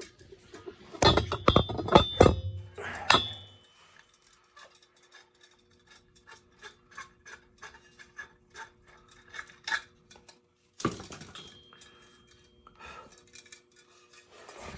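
Metal tools and small metal boiler parts clinking and clattering as a worn thermocouple and the pilot burner are taken apart. A loud burst of knocks starts about a second in, then a long run of light clicks and taps follows, with another clatter near the end.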